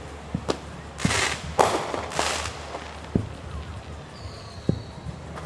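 Fireworks going off: dull booms of shells bursting, scattered every second or so, with three loud crackling bursts between about one and two and a half seconds in.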